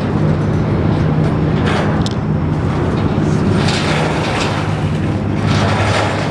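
River boat's engine droning steadily with a low hum, with a rushing noise that swells and fades several times.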